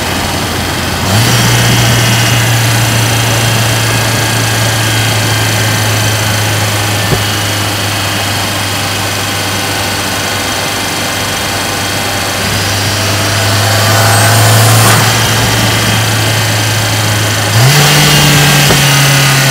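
Cabin sound of a Mercedes-AMG GLA 45's turbocharged 2.0-litre four-cylinder under way, a steady low engine drone. It steps up in pitch about a second in and again near the end, and grows louder for a moment a few seconds before the end.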